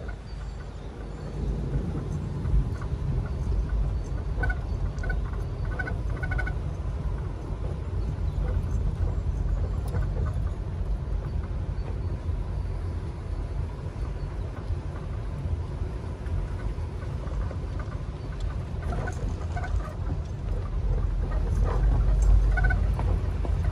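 Steady low rumble of a vehicle driving slowly along a forest track. A bird calls in short repeated notes about five seconds in and again near the end.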